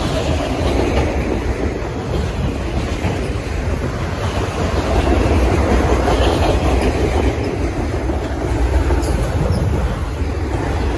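Freight train of multilevel autorack cars rolling past at about 30 mph: a steady, loud rumble of steel wheels on rail.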